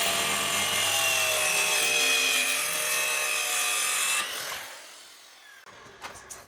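Handheld power tool running steadily against wood, then switched off and winding down about four seconds in.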